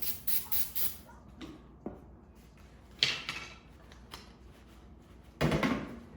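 Shop handling noises: a quick run of scraping sounds at the start, a sharp metal knock about three seconds in, and a louder clatter near the end, over a faint steady hum.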